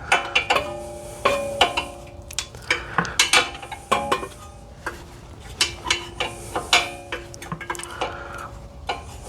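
Metal tools and parts clinking and knocking against each other in an irregular run of light metallic clinks, several a second, many leaving a brief ring.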